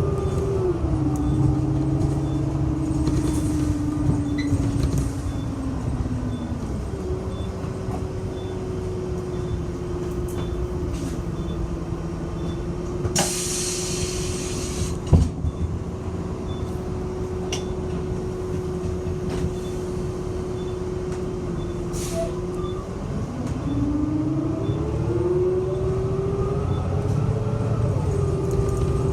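City bus slowing to a stop, its drive whine falling in pitch. It holds a steady whine while stopped, then rises in pitch as it pulls away near the end. About halfway through, a sharp hiss of compressed air lasts a second or so, followed by a brief knock.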